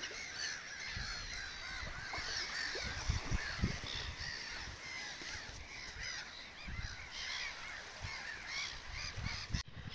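A flock of birds calling, with many short, overlapping calls.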